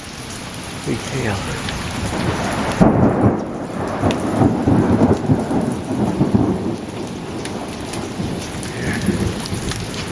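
Thunder rolling from a severe thunderstorm cell over steady rain. The rumble swells sharply about three seconds in and goes on rolling through the middle, with the rain hissing throughout.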